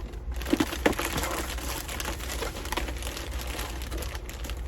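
Packaging crinkling and rustling as a delivery package is handled and unwrapped, with a few sharp clicks about a second in.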